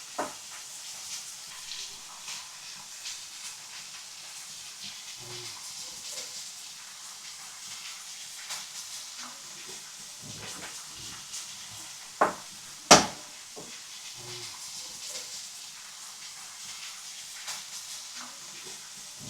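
Meat sizzling on a hot marble slab over a wood fire: a steady hiss with light crackling. Two sharp cracks come about twelve and thirteen seconds in, the second much the louder.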